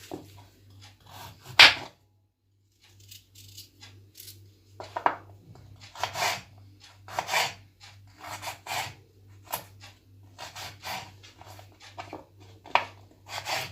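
Carrot being scraped with a peeler or knife in repeated rasping strokes, roughly one a second.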